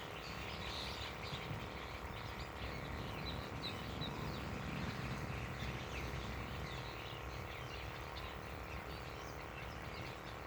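Outdoor ambience: many short, high bird chirps scattered throughout, over a steady low background hum.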